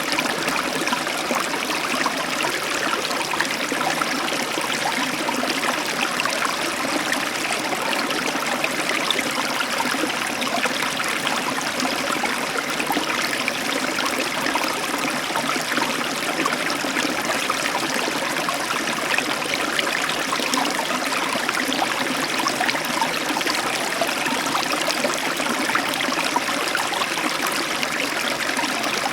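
Heavy tropical downpour of rain, a steady even hiss with no thunder.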